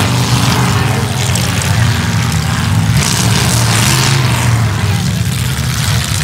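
Several demolition derby cars' unmuffled engines running together in a loud, rough drone that swells at times.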